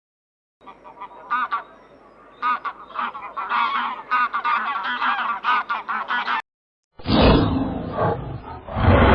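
A flock of domestic fowl calling: many short, quick calls overlapping one another. They stop abruptly after about six seconds, and a louder, rougher sound takes over near the end.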